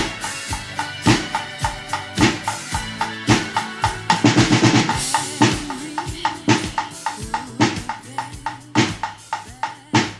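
Music played by a percussion ensemble with drum kit, with a strong beat about once a second among many lighter hits, over steady sustained tones. A drum roll comes about four seconds in.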